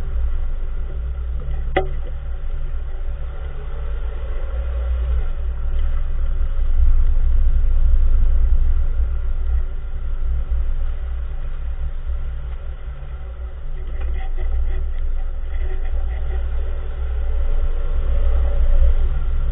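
Steady low rumble of a 2014 Nissan March, with one sharp clunk about two seconds in and a few lighter clicks around fourteen seconds: the mysterious knock from the front wheel area, whose source the owner cannot identify.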